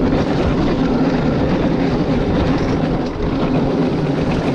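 Dirt bike engine running as the bike rides along a trail, its note wavering a little with the throttle.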